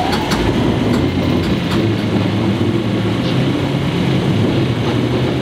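Inside a 1938 tube stock carriage under way: the motors under the floor hum steadily over the rumble of the running gear. A few sharp clicks come in the first two seconds.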